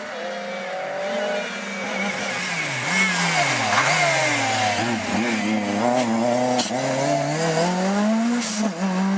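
Lancia Delta S4 Group B rally car's twin-charged four-cylinder engine revving hard, its pitch climbing and dropping several times as it is driven through the gears. It grows louder over the first few seconds, with a few sharp cracks past the middle.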